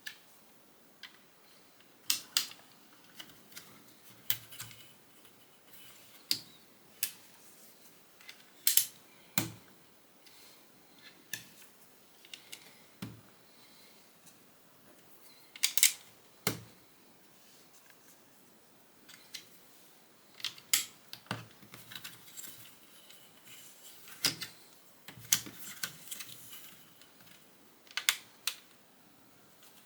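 Plastic Lego bricks being handled and pressed together: sharp, irregular clicks and snaps, some in quick pairs, with pauses of a second or more between them.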